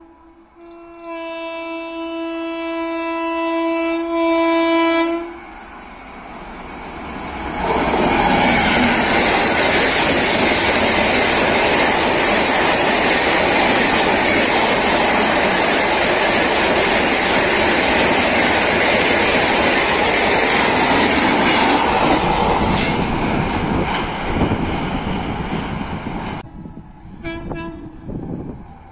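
Train horn sounds one long blast, then an express train of LHB coaches passes at speed with a loud rush of wheels on rail and clatter over the rail joints. The rush fades over its last few seconds, and a faint horn sounds again near the end.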